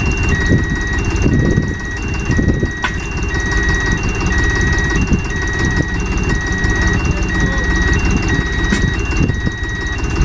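Heavy vehicle's engine running with an electronic reversing alarm beeping on and off in two alternating pitches.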